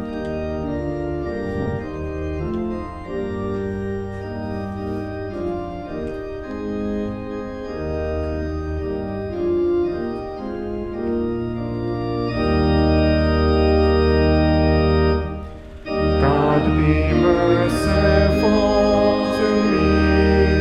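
Organ playing the introduction to a hymn-style psalm setting in held, changing chords. After a short break about three-quarters of the way through, the congregation comes in singing with the organ.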